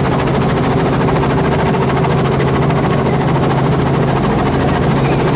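Helicopter running with a steady, rapid rotor chop over a low engine hum.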